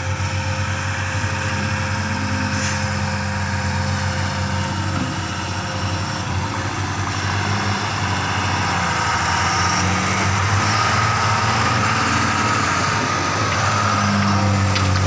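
Heavy diesel engine running steadily under load, from the backhoe loader or the tipper trucks it is filling, growing somewhat louder through the second half.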